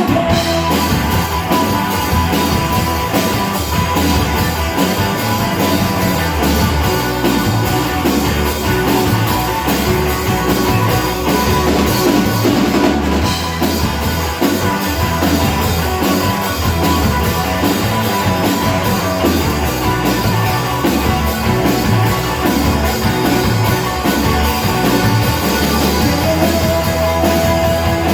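Live rock band playing an instrumental passage: drum kit keeping a steady beat under electric guitars, with no vocals.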